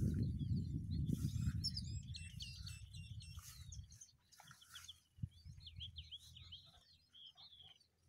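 Several small birds chirping and trilling in quick repeated notes, over a low rumble that fades out about halfway through.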